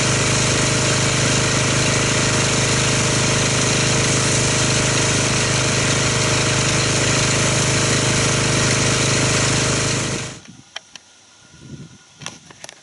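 Pressure washer running steadily with a low hum while it rinses foam off a car, shutting off suddenly about ten seconds in, followed by a few faint clicks.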